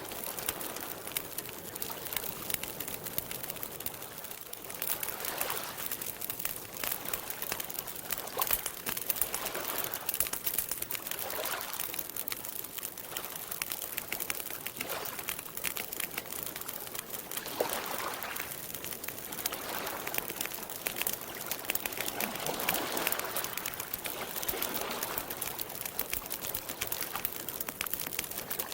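Wood campfire crackling with many small snaps and pops, over soft lapping water that swells every few seconds.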